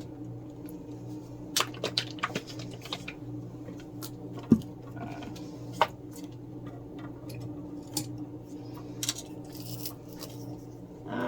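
Scattered light clicks and taps of objects being handled on a tabletop, with one sharper knock about four and a half seconds in, over a steady low hum.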